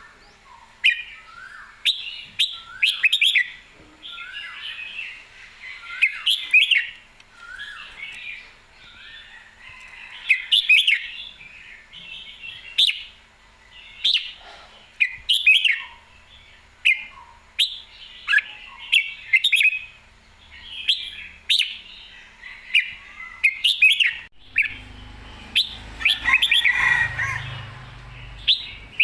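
Red-whiskered bulbul singing, short bright whistled phrases repeated every second or two. A low rumbling noise joins the song for a few seconds near the end.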